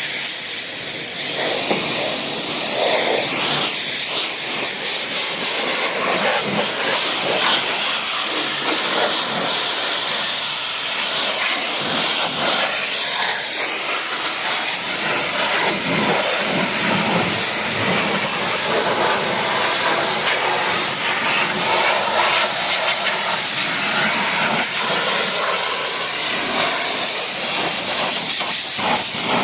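Pressure washer spraying water in a steady, unbroken hiss.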